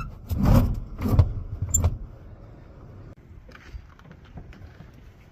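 Rustling and clunking of small objects being handled, loudest in the first two seconds with a few sharp knocks, then only a few faint clicks.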